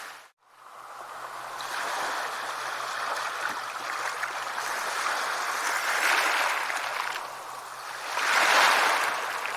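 Sea waves washing onto a shore in slow swells, one building about six seconds in and a louder one near the end. Right at the start the sound drops out almost completely for a moment, then fades back in.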